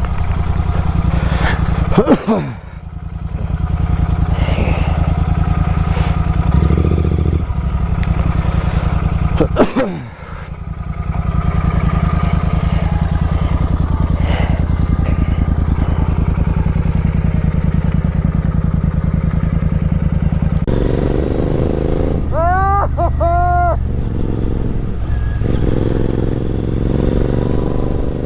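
Superbike engine running on the move, its note dropping briefly twice and picking up again. Near the end a short warbling high-pitched sound rises and falls several times over the engine.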